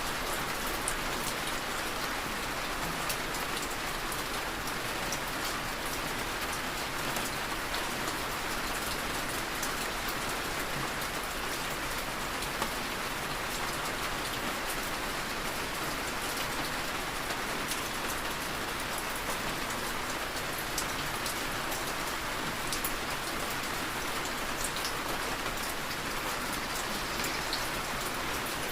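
Heavy, steady rain falling, with many fine drop impacts; no thunder is heard.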